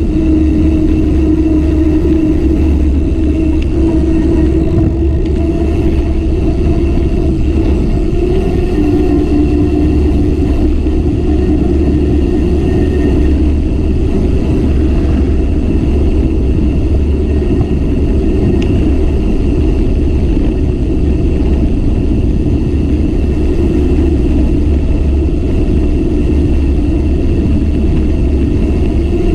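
Steady wind rush and road noise from riding a bicycle, with a low wavering hum running under it.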